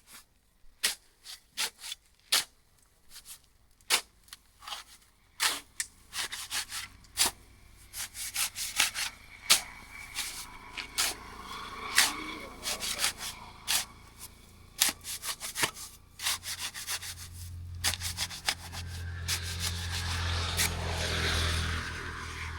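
Masonry hand work: irregular sharp taps and scrapes of a trowel on bricks and mortar, coming thicker after the first few seconds. A low engine hum builds in the last few seconds.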